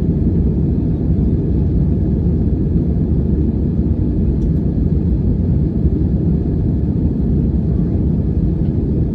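Airplane cabin noise: engines and rushing air make a steady, loud low rumble with no change in pitch or level.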